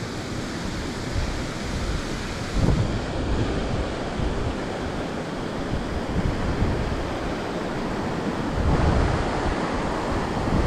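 Steady rush of falling water, with gusts of wind buffeting the microphone about two and a half seconds in and again near the end.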